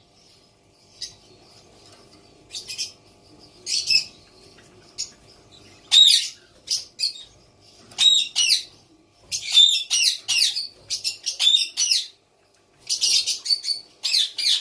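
Baby white cockatoo giving short, harsh calls in quick runs. They are sparse at first and come thick and fast from about six seconds in.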